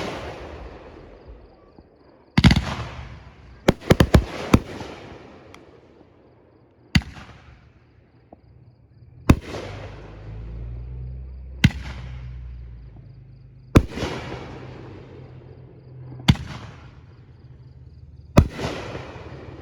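Aerial fireworks shells bursting one after another, a sharp bang every two seconds or so with a quick run of several bangs about four seconds in, each bang trailing off in a fading echo.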